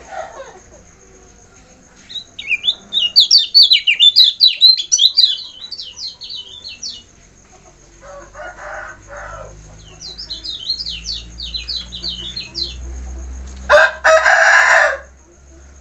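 Kecial kuning white-eye singing in two runs of rapid, high twittering notes that sweep quickly up and down. Lower, harsher calls come between them, and a louder one about a second long comes near the end.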